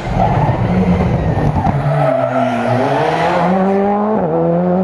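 Rally car engine under hard acceleration: the revs dip about two seconds in, climb steadily, then drop sharply at a gear change near the end.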